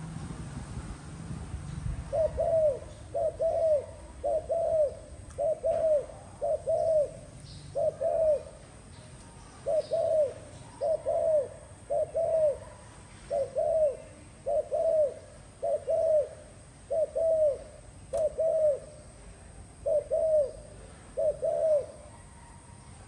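Spotted dove cooing: a long series of paired, low coo notes, about one pair a second, with a couple of short pauses.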